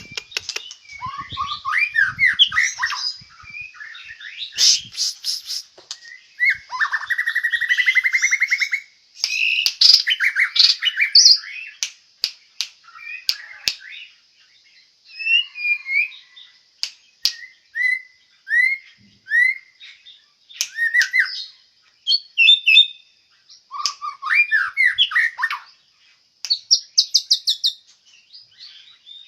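White-rumped shama (murai batu) singing a long, varied song of whistled phrases and slurred notes broken by short pauses. There is a fast rattling trill about seven seconds in and a burst of rapid repeated high notes near the end.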